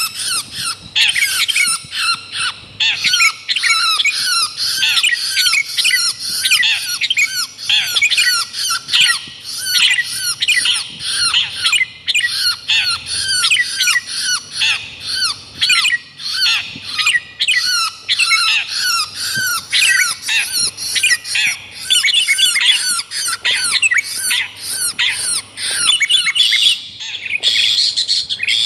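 Dense, harsh bird calls from a lure-call track mixing long-tailed shrike (cendet) and sooty-headed bulbul (kutilang): short, sharply falling notes repeated several times a second without a break, the pattern changing shortly before the end.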